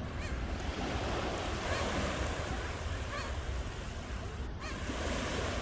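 Ocean surf washing steadily onto the shore, with short bird calls coming now and then over it.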